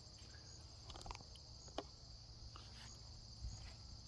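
Faint, steady high-pitched insect chorus, like crickets, with a couple of small clicks about a second in and a little before two seconds.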